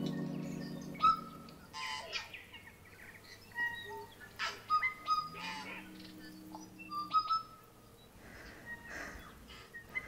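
Birdsong: several birds chirping and whistling short calls throughout. An organ chord fades away over the first couple of seconds.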